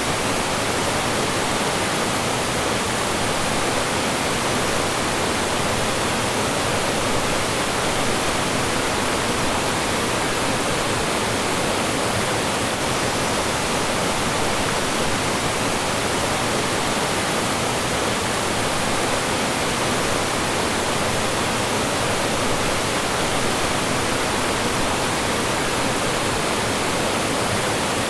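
Mountain stream rushing and splashing over rocks and small falls, a steady full-bodied water noise that does not change.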